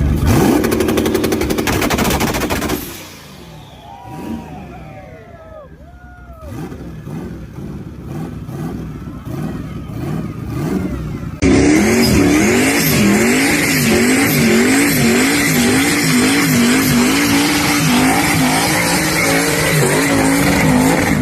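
Turbocharged car engines from separate clips. First comes a loud run of rapid popping, like a 2-step launch limiter, lasting about three seconds, then a few quieter seconds. After an abrupt cut, an engine runs loud, its pitch rising and falling in a steady rhythm.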